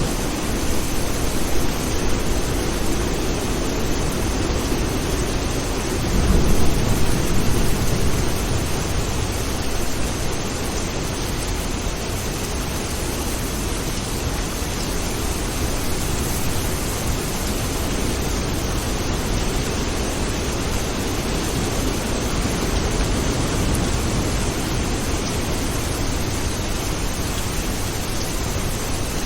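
Steady rain hiss, with a low rumble of thunder about six seconds in that swells for a couple of seconds and fades.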